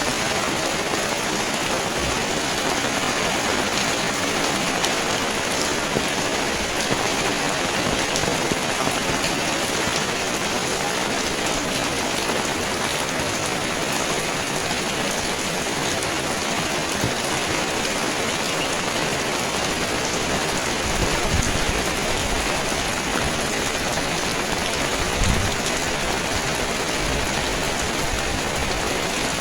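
Steady, heavy rain falling, a dense even hiss of drops on surfaces. There are a couple of brief low thumps about two-thirds of the way through and again a little later.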